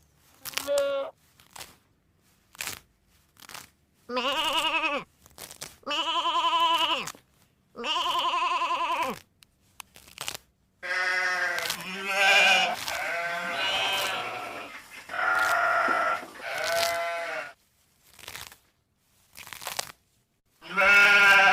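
Sheep bleating: a string of wavering calls about a second long, several animals overlapping in the middle, with short clicks between the calls.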